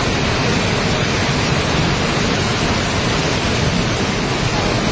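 Steady, loud rushing noise of a tropical storm: heavy rain and running water, unbroken.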